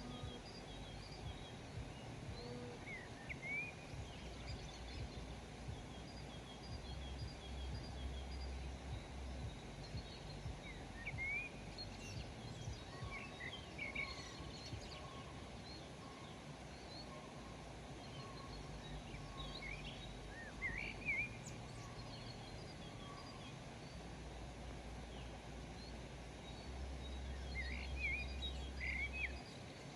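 Birds chirping and calling in short rising notes and quick repeated twitters, in clusters a few seconds apart, over a steady low background rumble.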